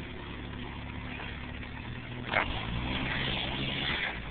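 Jeep Wrangler engine pulling the vehicle up a steep off-road hill. A sharp knock comes a little past halfway, after which the engine gets louder under the climb.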